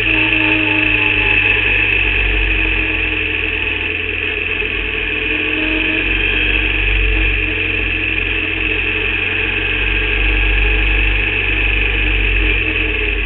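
Formula Vauxhall 8v race car engine running steadily, without revving up or down. The driver reports this engine as misfiring.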